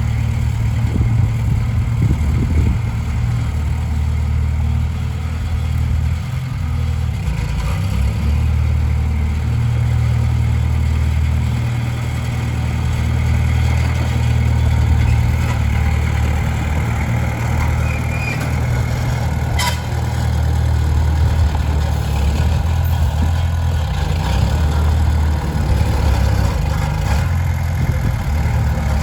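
Komatsu D20P bulldozer's diesel engine running steadily under work, with a single sharp click about two-thirds of the way through.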